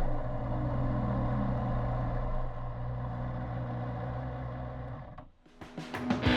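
Racing motorcycle engine running steadily at a low, even pitch; it cuts off about five seconds in.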